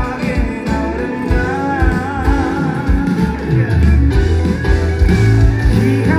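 Live band music in a rock style: guitar, heavy bass and drums, with a wavering melody line on top.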